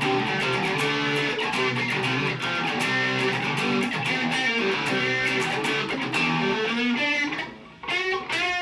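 Mexican-made Fender Stratocaster electric guitar with Lace Sensor pickups played through an amp, bridge and neck pickups together with the tone at 7 and the volume turned down to 5, ringing out notes and chords. A short gap about seven and a half seconds in, then notes with vibrato.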